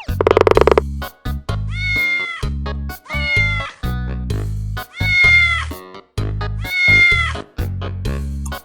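A cat meowing four times, each meow drawn out and about a second and a half apart, over music with a heavy repeating bass beat.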